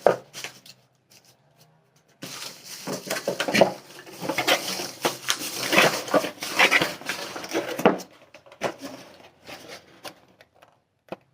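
Hair dryer brush and its plastic packaging being handled: rustling and clicking of plastic, busiest for several seconds in the middle, then a few scattered clicks.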